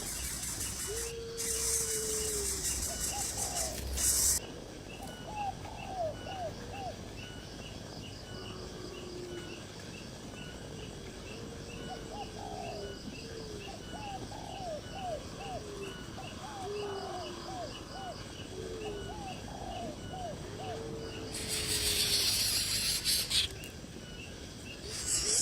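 Birds calling: low slurred notes alternating with quick runs of short upward-hooked notes, over an insect chirping steadily about twice a second. Loud hissing noise swells in twice, once near the start and once near the end.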